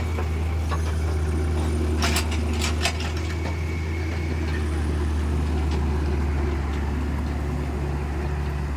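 Kubota mini excavator's diesel engine running steadily while digging soil, with a few sharp metallic knocks about two to three seconds in.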